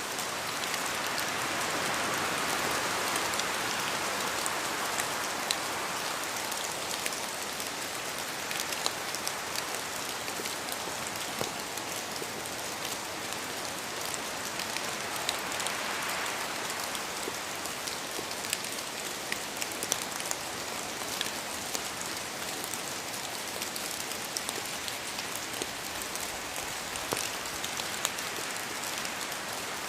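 Steady rain falling through forest, with many separate drops pattering and ticking on leaves. Gusts of wind swell up near the start and again about halfway through.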